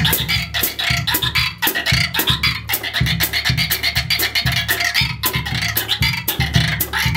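Frog sound drum played in a rhythm: a rosined stick is turned against a string fixed to a tiny goat-skin drum, giving a fast run of croaks, many a second.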